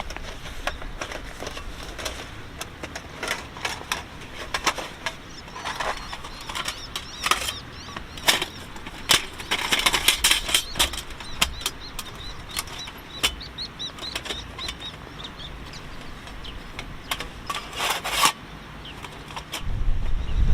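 Rustling and clicking from things being handled, in irregular runs that are busiest around the middle and again near the end. A few short high chirps come about two-thirds of the way through.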